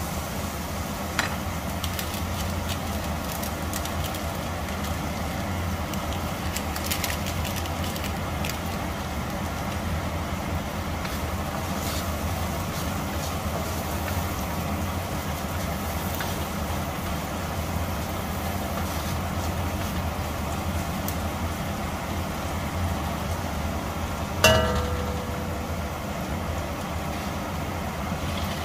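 Minced carrots and garlic sizzling in oil in a stainless steel wok, with a wooden spatula scraping and tapping the pan now and then, over a steady low hum. Near the end a single loud clang rings out briefly.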